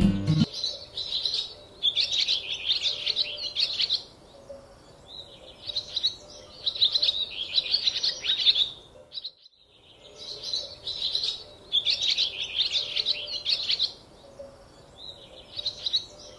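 Small birds chirping in quick runs of high notes, each run lasting a second or two with short pauses between. The sound cuts out completely for a moment about nine seconds in.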